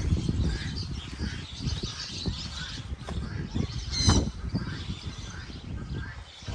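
Birds calling in short chirps and squawks, with one louder call about four seconds in, over a continuous low rumble.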